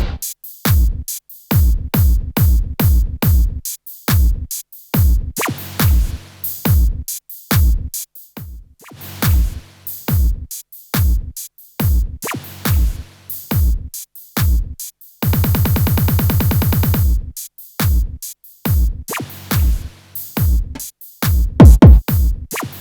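Electronic music built on electronic percussion: a stream of short, punchy hits that drop quickly in pitch, in an uneven rhythm, broken a little past the middle by a rapid buzzing roll lasting about two seconds.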